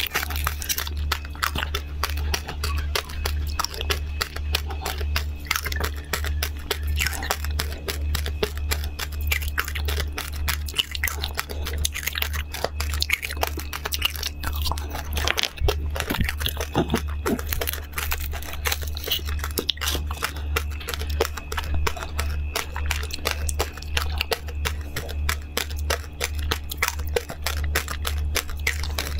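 Foil candy wrapper crinkling as it is peeled off, then close-miked biting and crunchy chewing of a seed-coated candy on a stick: many quick, crisp crunches, with a steady low hum underneath.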